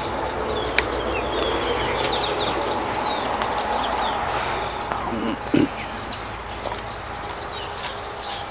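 Birds calling with many short falling chirps over a steady high-pitched insect whine, with scattered clicks and a brief louder low sound about halfway through.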